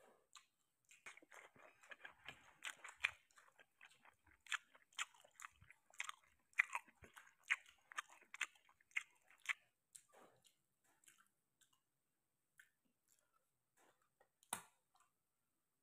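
Close-miked wet chewing and lip smacking of rice and canned sardines, several smacks a second, dying away after about ten seconds. Near the end, a single sharp click as a sardine can is handled.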